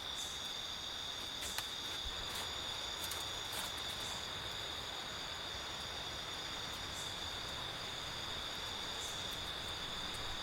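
Steady insect chorus: one continuous high, even trill with no break, with a few faint scattered ticks over it.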